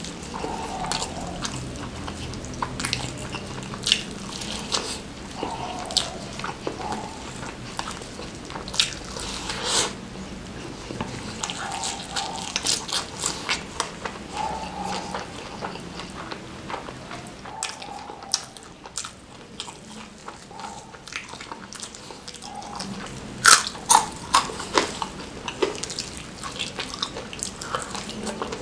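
Close-up eating sounds: a person biting and chewing fried chicken coated in chili sambal, with crisp crunches and wet mouth sounds. A run of sharper, louder crunches comes a few seconds before the end.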